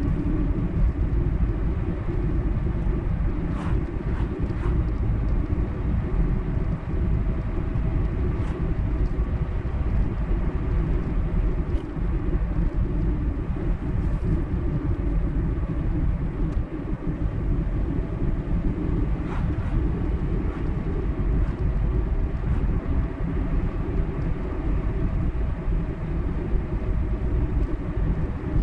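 A car driving at steady speed on a highway: a constant low rumble of tyres and engine, with a few faint clicks.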